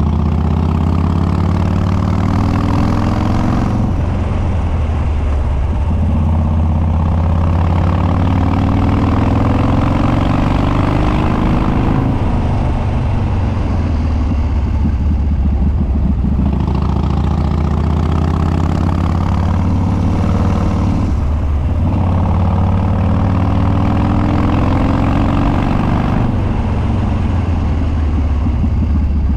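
Harley-Davidson Dyna Street Bob Twin Cam V-twin on a Stage 2 build with Andrews 48H cams and unbaffled upswept dual exhaust, running loud under way. Its pitch climbs steadily, then breaks off and drops back about five times, at roughly 4, 12, 16, 21 and 26 seconds in.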